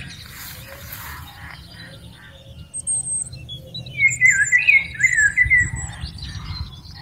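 Birds calling: a string of short, quick, wavering chirps and squawks, busiest and loudest about four to six seconds in.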